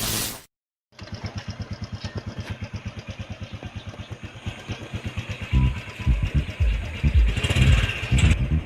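A short burst of noise, then a brief silence, then a small motorcycle engine running with a rapid, even putter that grows louder about halfway in.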